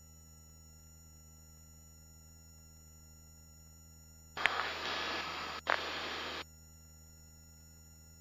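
Helicopter headset intercom feed: a steady low hum with thin steady tones. About halfway through, a headset microphone opens twice in quick succession for around two seconds in all, each time with a click, letting in a burst of rushing cabin noise.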